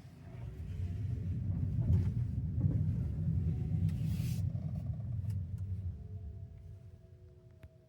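Road and tyre rumble inside the cabin of a Kia EV3 electric car as it drives. The rumble swells over the first couple of seconds and fades away toward the end. A few faint clicks come near the end.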